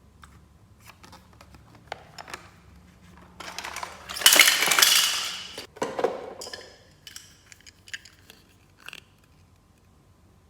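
Close-up handling of a plastic toy playset and its packaging: scattered clicks and taps of small plastic pieces, with a loud rustling stretch about four seconds in and a shorter one just after.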